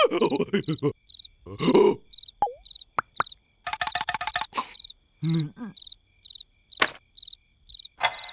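Cartoon soundtrack with steady cricket chirping as ambience, short high chirps about twice a second. Over it come brief squeaky cartoon-character vocal sounds and a few sharp click and knock effects.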